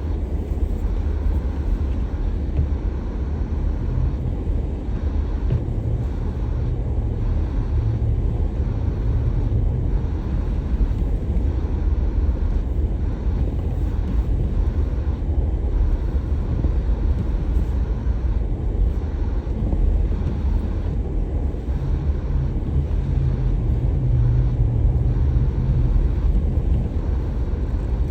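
A car being driven, with the steady low rumble of its engine and tyres on the road. A faint drone rises a little for a few seconds twice, around a quarter of the way in and again near the end.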